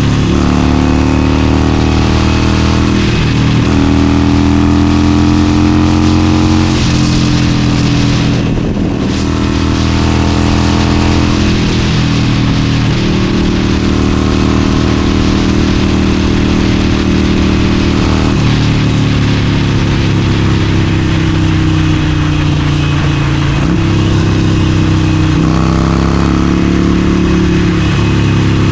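Harley-Davidson Forty-Eight's air-cooled 1200 cc V-twin riding at speed: the engine note climbs as it pulls and drops back several times at gear changes or throttle changes, with a brief let-off about nine seconds in. Wind rushes over the microphone.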